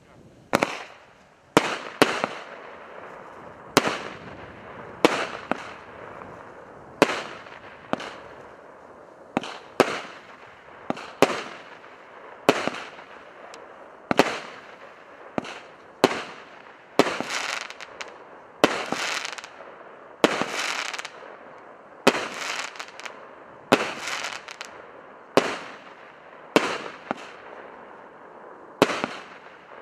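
A multi-shot firework firing shot after shot, about one a second at uneven intervals. Each shot is a sharp bang that trails off quickly.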